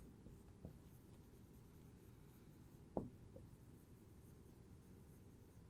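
Near silence: room tone with a faint low hum and a single small click about three seconds in.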